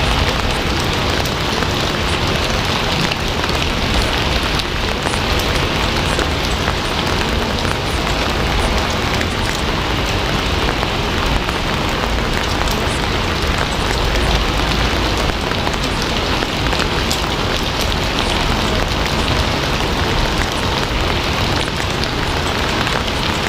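Steady, heavy rain falling on a surface, a dense even hiss with a low rumble beneath it.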